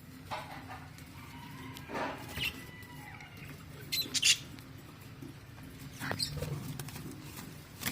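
Short, high squeaks from a small animal, a few scattered calls with the loudest pair about four seconds in, over a low steady background hum.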